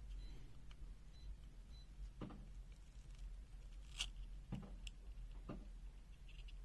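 Faint clicks and light taps from handling the small plastic parts of a disassembled multimeter, about five of them, the sharpest about four seconds in, over a steady low hum.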